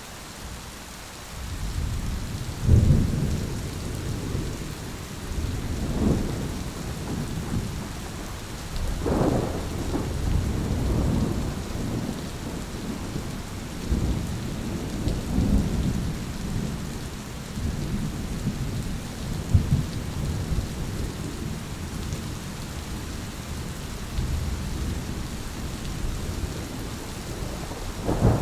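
Thunderstorm: steady heavy rain with rolling thunder that builds about a second and a half in and keeps rumbling, with several sharper peals along the way and another at the end.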